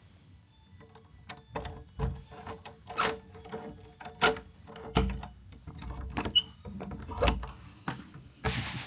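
A key working a door lock and the door being handled: an uneven run of metallic clicks, rattles and knocks, a few of them sharp.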